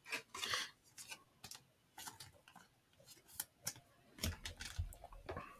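Trading cards being handled: scattered soft clicks and light slides of card stock, with a few dull taps about four seconds in as cards are set down.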